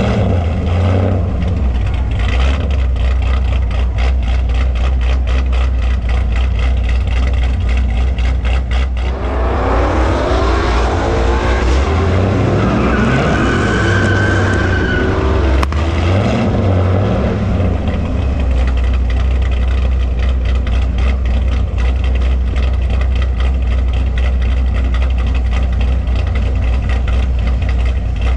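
A muscle-car V8 idling steadily with an even pulsing beat. From about nine seconds in, a car accelerates hard, its engine pitch rising and falling through the gears, for several seconds, then fades back under the idle.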